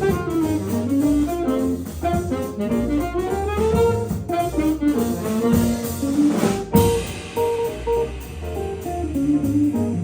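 Jazz quintet of electric guitar, alto saxophone, piano, upright bass and drum kit playing a fast, busy melodic line, with a cymbal crash about two-thirds of the way through.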